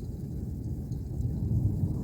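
Rolling thunder, a low continuous rumble that swells a little past the middle.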